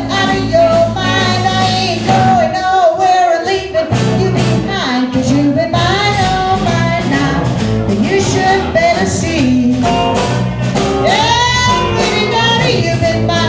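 Live rock-and-roll band music with women singing over the accompaniment.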